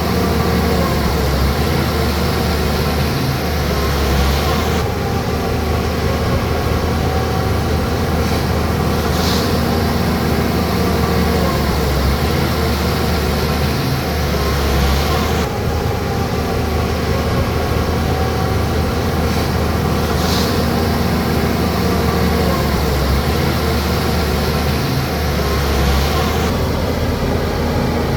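Bulldozer's heavy diesel engine running steadily, its pitch rising and falling a little, with a few brief high squeaks.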